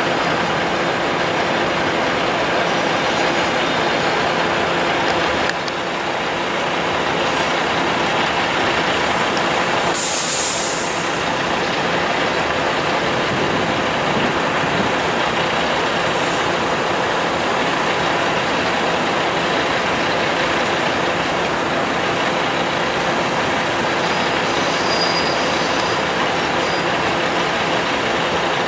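Heavy-haulage trucks with multi-axle oversize trailers running steadily along the road, a continuous rumble of engines and tyres. There is a short high hiss about ten seconds in.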